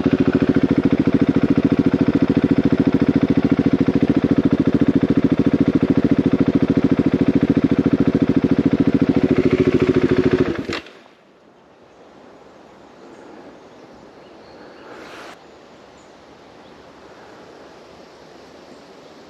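Single-cylinder trail motorcycle engine running at a steady idle with an even, rapid thumping beat, cutting out abruptly about two-thirds of the way through. Faint wind and outdoor ambience follow, with one short noise near the end.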